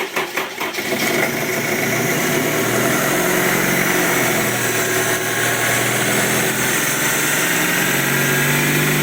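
Honda K20 2.0-litre four-cylinder engine finishing a brief crank and catching in the first second, then running steadily at a cold fast idle. It is freshly rebuilt with a new timing chain, and the knock it came in with is gone.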